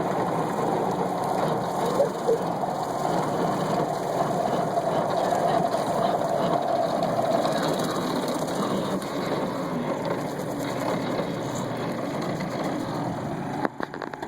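1948 Willys pickup running with its PTO-driven bush hog engaged, a steady rattling mechanical clatter. Near the end it cuts out abruptly, with a few sharp clicks.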